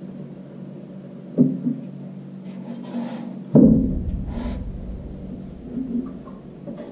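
Knocks and rubbing from the truck's fuel tank being let down on its straps: a knock about a second and a half in, then a louder clunk about halfway through, followed by a low rumble that fades away.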